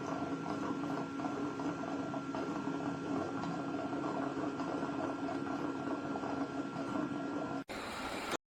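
eufy Omni C20 base station washing the robot's mop: a steady mechanical hum with a constant higher whine. It breaks off sharply near the end, comes back briefly, then stops.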